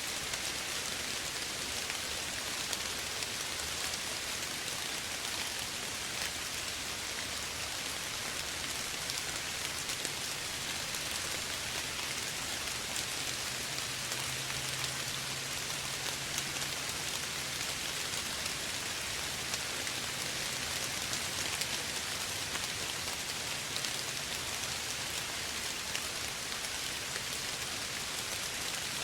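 Soft, steady rain falling on a surface, an even hiss dotted with the ticks of many small drops.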